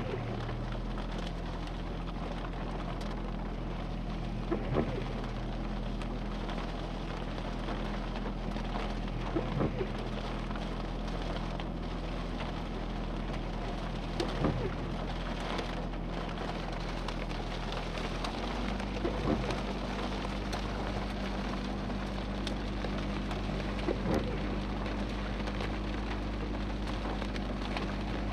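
Steady rain falling on a vehicle, over a low steady hum from its idling engine, with a short knock about every five seconds.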